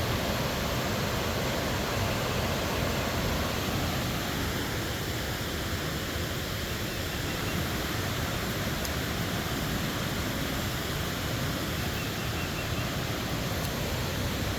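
Waterfall: falling water rushing with a steady, even sound.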